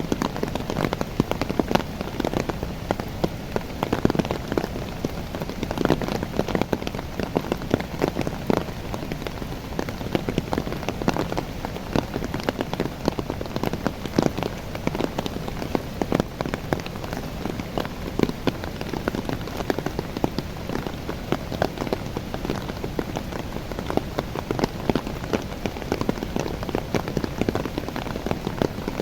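Steady rain falling on the leaves of young coffee plants, a dense, even stream of drop ticks with no let-up.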